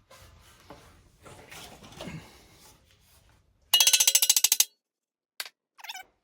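Loose metal hardware handled: faint clinking, then about four seconds in a brief, rapid rattle of about a dozen ringing metallic clicks in under a second, followed by two single clicks.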